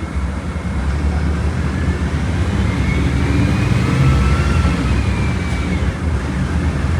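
Volkswagen Volksbus 17.230 Euro 6 bus diesel engine running under way, heard as a steady low rumble from on board. The engine swells a little near the middle, with a faint whine rising and then falling.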